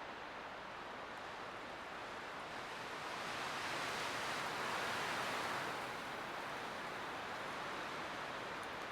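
Light wind blowing steadily, rising in a gentle gust a few seconds in and easing off again.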